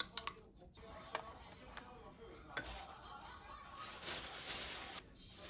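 Kitchen utensils clicking and clinking against dishes, then a steady hiss for about two seconds that cuts off suddenly.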